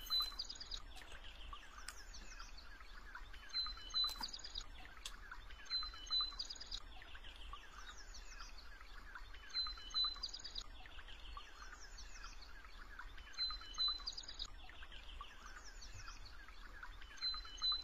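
Birdsong: one bird repeats the same short phrase, a brief high note followed by a quick run of notes, about every three to four seconds, over a steady background of chirping.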